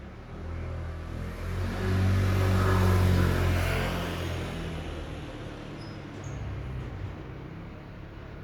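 An engine running with a low steady hum, growing louder about two seconds in and easing off again after about four seconds.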